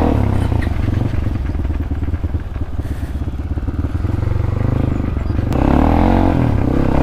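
Crossfire RM250 motorcycle engine running loud under throttle while riding, with a quick rise and fall in revs about five and a half seconds in.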